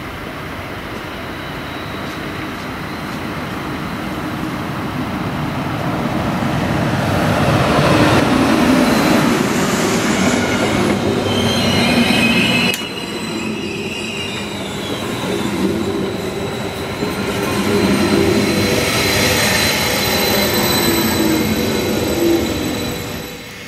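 Electric passenger train running past along a station platform: a rising rumble of wheels on rails as it comes in, with brief high wheel squeals, swelling twice and dying away near the end as the last car passes.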